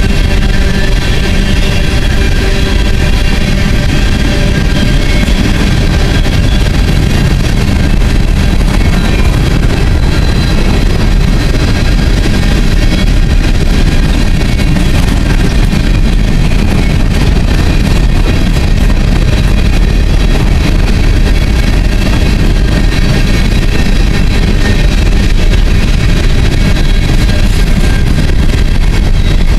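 A string of empty coal hopper cars rolling past on the rails: a loud, steady rumble of steel wheels on track, with faint steady high-pitched tones over it.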